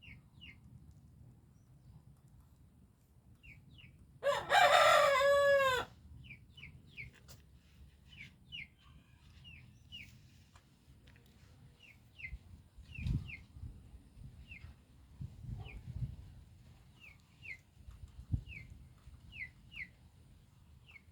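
A rooster crows once, about four seconds in, the loudest sound. Short high peeps, often in pairs, repeat throughout, with a few dull low thumps in the second half.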